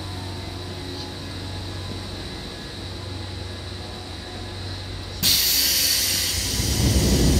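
Seibu old 2000-series electric train with a steady low hum, then about five seconds in a sudden loud hiss of compressed air from its pneumatic system, followed by a low rumble building near the end.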